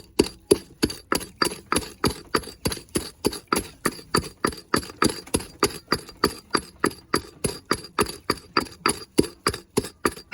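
Charcoal being pounded into powder: steady, rhythmic knocks, about three to four strikes a second.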